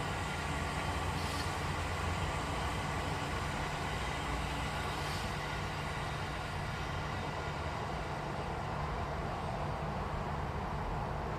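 Steady rumble of a train with a low hum and no clear wheel beats.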